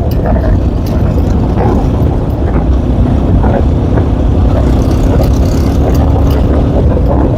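K Moto ATX enduro motorcycle engine running under way, heavily mixed with low wind rumble on the microphone. A steady engine tone holds through the middle, with scattered clicks over it.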